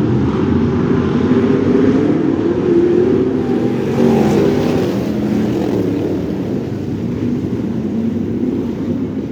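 Crate sprint car V8 engines racing, the engine note rising and falling as the throttle is worked on and off.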